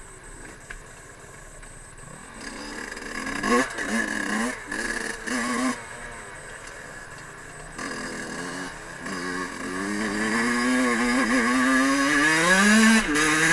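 Small two-stroke dirt-bike engine of a Fantic 50 Scuderia: a few short throttle blips a few seconds in, then a longer pull with the pitch climbing steadily, loudest near the end.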